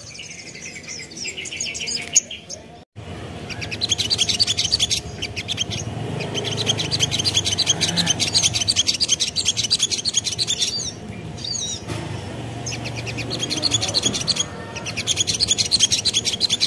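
Little spiderhunter (sogok ontong) singing: long runs of fast, evenly repeated high chirps, broken by short pauses twice.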